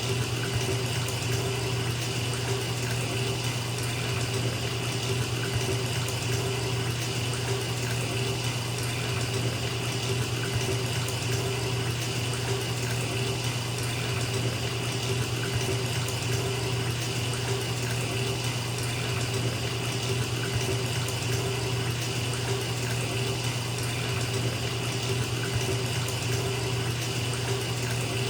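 Bathtub tap running steadily, water pouring into a filling tub, with a low steady rumble under the splashing.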